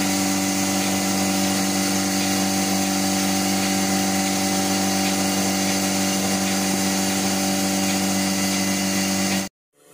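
A motor running steadily at constant speed with a fixed hum, stopping abruptly near the end.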